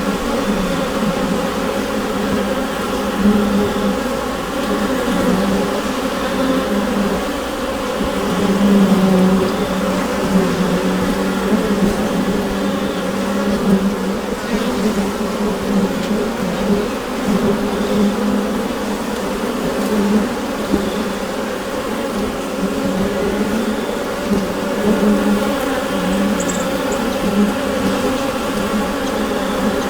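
Steady buzzing hum of a mass of bees inside a beehive, many wingbeats blending into one dense drone whose pitch wavers slightly.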